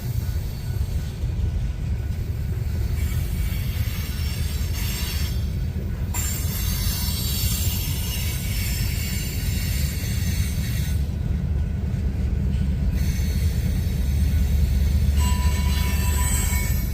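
Loaded coal hopper cars rolling past with a steady low rumble, and high-pitched wheel squeal that comes and goes, dropping out briefly twice.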